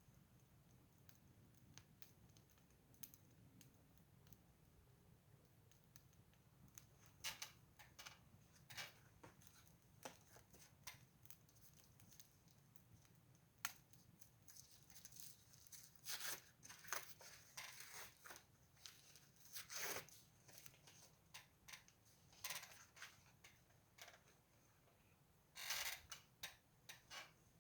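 Wood fire crackling faintly, with irregular sharp pops and snaps of burning firewood, few at first and coming thicker in the second half.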